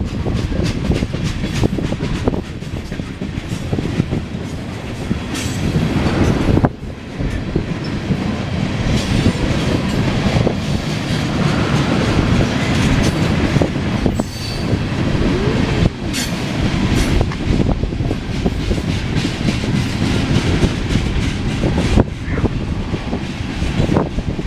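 Loaded ethanol tank cars of a CSX freight train rolling past at close range. Steel wheels clack over the rail joints continuously, with brief wheel squeals now and then.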